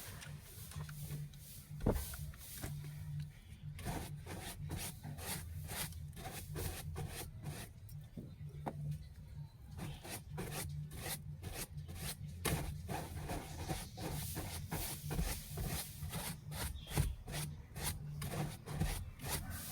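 Repeated rubbing strokes of a car interior being wiped and scrubbed, at up to about two strokes a second, with one sharper knock about two seconds in.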